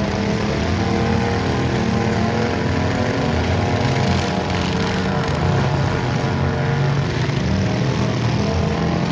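Small garden tractor engines running steadily and loudly, more than one engine note heard at once.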